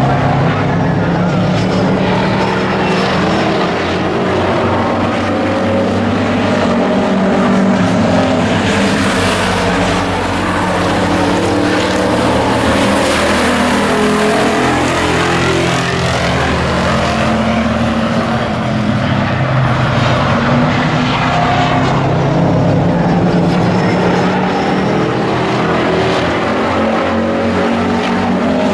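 Engines of several stock race trucks running at speed around an oval track, their pitches rising and falling together, with one passing close about ten seconds in.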